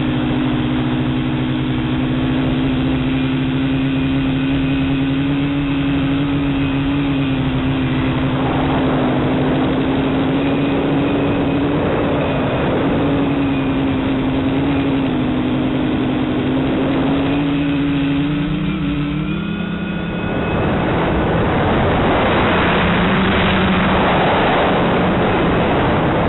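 Tricopter's electric motors and propellers buzzing in flight, picked up by the onboard camera, with a steady pitch that wavers slightly. About twenty seconds in, the motor pitch drops and the buzz gives way to a louder, rougher rushing noise under a lower motor tone.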